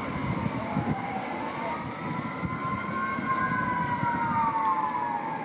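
Distant emergency-vehicle siren wailing, its pitch slowly rising and falling over a few seconds, over a low steady rumble of background noise.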